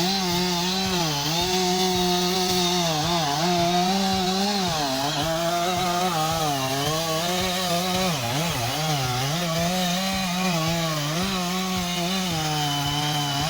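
Chainsaw running at high speed while cutting, its engine pitch sagging and recovering over and over as the chain bites and frees up.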